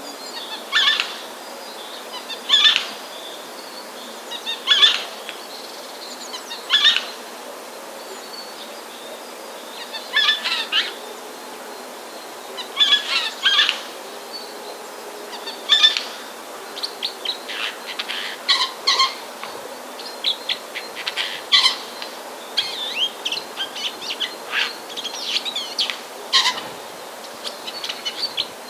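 Bird calls: short, harsh calls repeated about every two seconds, giving way from about halfway to quicker, busier runs of short chirps.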